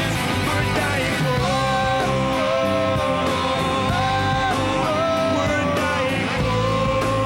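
Rock band playing: guitars, bass and drums under a melody line of long held notes that bend up and down in pitch.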